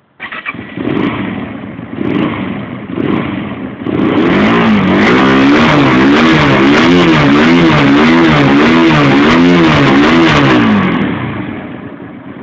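Hyosung GT250R's 250 cc V-twin through a Nozima full aftermarket exhaust, being revved. It comes in abruptly with three short throttle blips about a second apart. Then it is held at high revs, the pitch swinging up and down about one and a half times a second, before easing off near the end.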